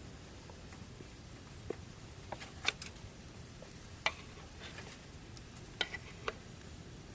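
A handful of scattered light clicks and taps over a steady low hiss, the sharpest a little under 3 seconds in and about 4 seconds in.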